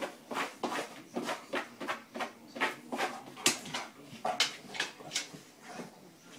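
A golden retriever's paws scratching at a doormat while it rubs its face along it, in irregular scrapes about two or three a second.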